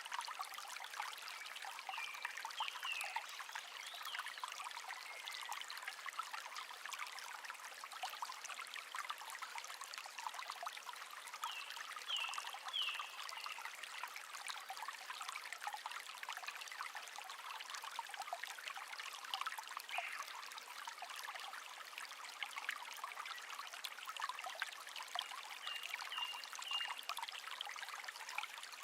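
Small stream trickling and babbling steadily, with short bird calls now and then, in a few brief clusters.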